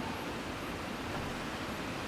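Mountain stream water flowing with a steady, even rush.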